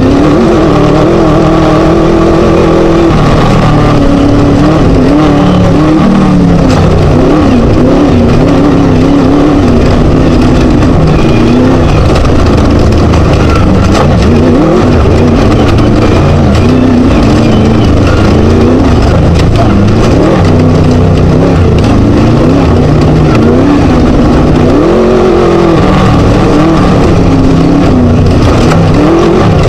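Class 1 desert race buggy's Scat engine running hard, its revs rising and falling again and again with the throttle, very loud over a constant rough noise.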